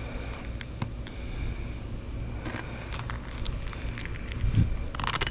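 Scattered light clicks and scrapes of handling and movement on an asphalt shingle roof, with a soft thump about four and a half seconds in and a cluster of crackling near the end, over a steady low rumble.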